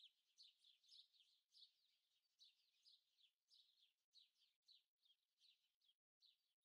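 Very faint birdsong: small birds chirping in a rapid, continuous run of short, high notes.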